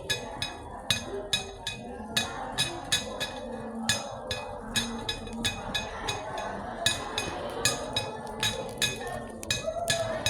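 A rapid train of sharp clicks or taps, about three a second and slightly uneven, over a steady background murmur.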